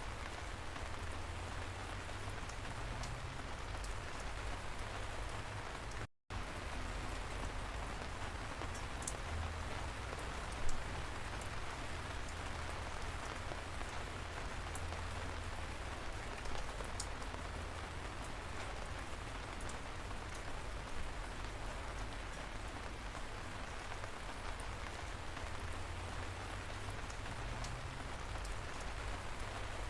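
Steady light rain falling, with a low rumble underneath and scattered sharper drops ticking. A split-second dropout comes about six seconds in, and a single louder drip about a third of the way through.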